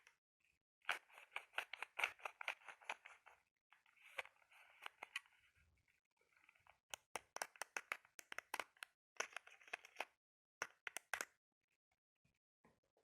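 Close-miked ASMR knocking and scratching on a hard object: quick runs of light taps, a stretch of scratching near the middle, then more tap runs with short pauses between them.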